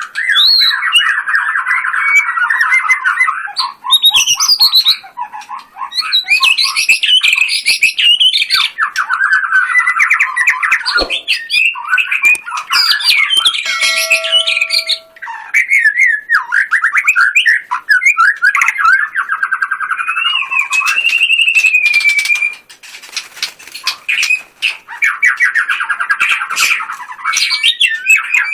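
White-rumped shama singing loudly and almost without pause, a varied song of fast repeated-note trills, rapid chattering phrases and clear whistles, including a long wavering whistle a little past the middle.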